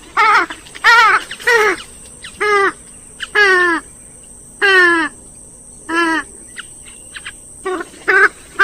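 Grey-headed swamphen calling: a run of about a dozen loud calls, each sliding down in pitch, some in quick pairs, with short pauses between.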